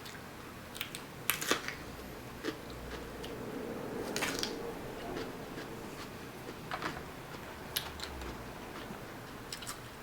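Eating Dungeness crab: scattered short clicks and cracks of shell being broken and picked apart, with a few chewing and biting sounds.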